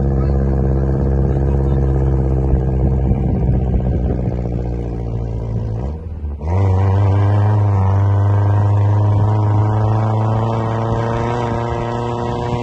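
Engine of a car driving on a snowy road, running steadily under load. About six seconds in, its sound dips for half a second, then picks up again at a slightly higher pitch that slowly rises.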